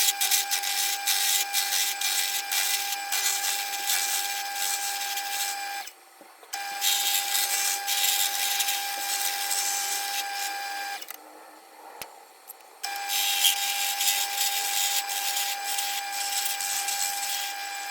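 Wood lathe running at a steady motor pitch while a turning tool cuts a spinning ash blank, shaping it round. It comes in three stretches that cut off suddenly about six seconds in and again around eleven seconds, then resume.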